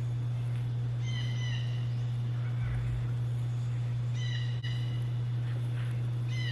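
A bird calls three times, each call short and dropping in pitch at the end, about every two to three seconds, over a steady low hum.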